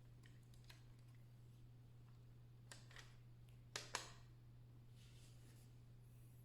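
Near silence: a faint steady low hum, with a few soft ticks and then two sharp clicks in quick succession just before the middle.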